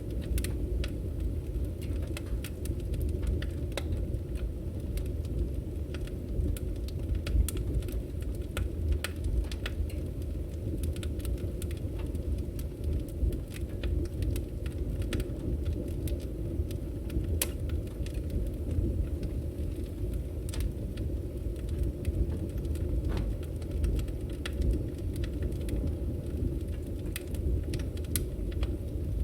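Firewood burning and crackling: irregular sharp pops and snaps over a steady low rumble of flames.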